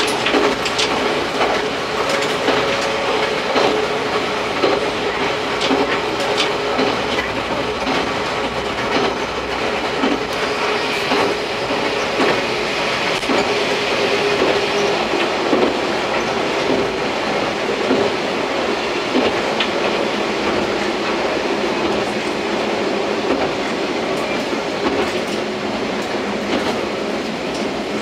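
Akita Nairiku line diesel railcar running steadily, heard from the front of the car: a continuous drone with the wheels clacking irregularly over the rail joints.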